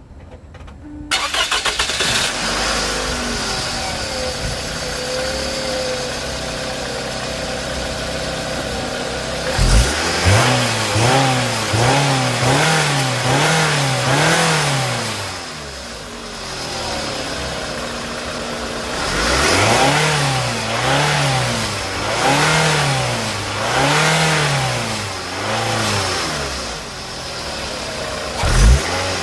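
A second-generation Scion xB's 2.4-litre four-cylinder engine starts about a second in and idles. It is then revved in two runs of quick throttle blips, each rising and falling in pitch, to check the throttle response and listen for an exhaust leak after the exhaust flange gasket was replaced.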